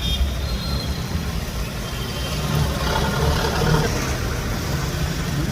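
Road traffic with vehicle engines running: a steady low rumble under a constant hiss.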